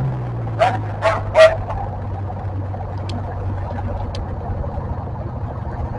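Pulling tractor's engine running at a steady low idle, having just wound down. About a second in, three short sharp sounds cut in over it, the last the loudest.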